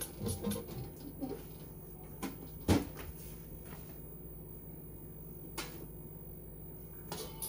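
A single sharp knock about three seconds in, with a couple of fainter clicks, over a steady low hum.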